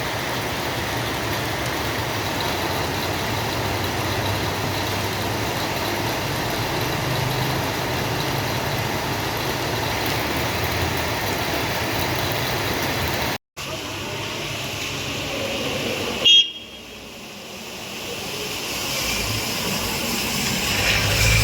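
Steady road traffic noise from passing vehicles. The sound cuts off abruptly about 13 seconds in and resumes, then a short, loud horn-like toot comes about 16 seconds in.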